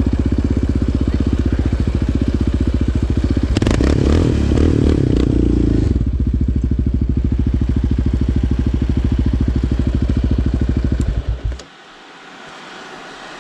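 Yamaha Raptor 700R's single-cylinder four-stroke engine idling with a steady thumping beat, with a brief louder, rougher stretch about four seconds in. Near the end it is switched off and cuts out suddenly.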